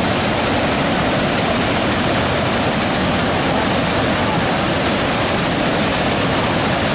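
Waterfall's water rushing steadily, a loud, even noise without breaks.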